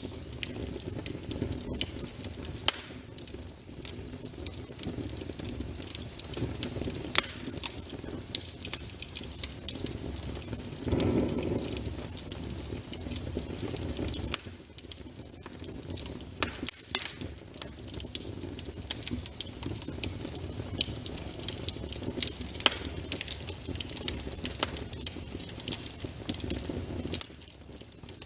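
Fire burning in a fireplace: a steady low rush with frequent irregular crackles and sharp pops.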